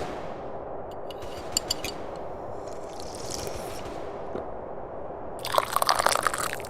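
Tea being slurped from a cup: a loud sip begins near the end and lasts about a second, with small crackling sounds earlier.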